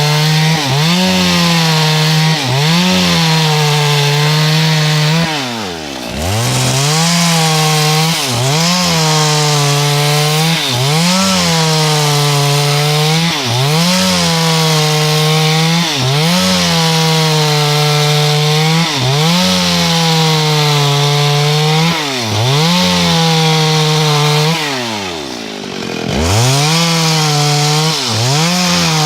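Two-stroke chainsaw running under load, sawing wood lengthwise into boards. Its engine pitch sags and recovers every second or two as the chain works through the wood, with two deeper drops, about six seconds in and near the end.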